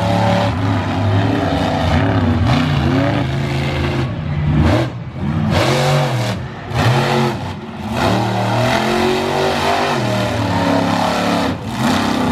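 Big engines revving hard, again and again, their pitch climbing and falling in quick swoops, most rapidly in the middle stretch.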